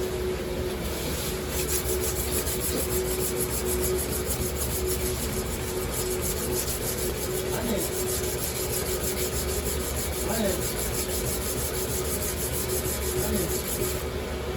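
Kitchen knife being sharpened: the blade scrapes back and forth in rapid, even strokes, over a steady hum.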